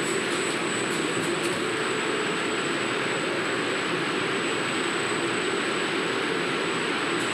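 Factory machinery running with a steady mechanical noise and a wavering hum, with a few light clicks in the first second or so.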